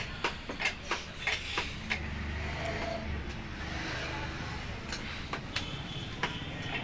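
Bajaj Pulsar 150 motorcycle engine running with a steady low hum, with irregular sharp clicks over it in the first two seconds and again near the end.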